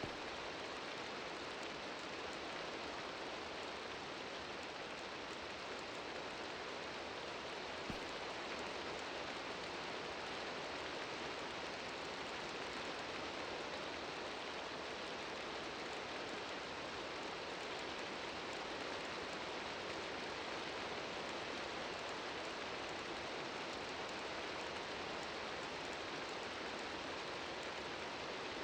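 Steady rain falling, an even hiss with no let-up, and one sharp tick about eight seconds in.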